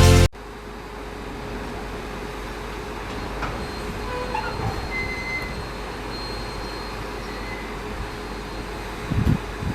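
Steady rumble of an EMU local train running on the track, with a few faint short high squeals. A music intro cuts off at the very start, and a couple of low thumps come near the end.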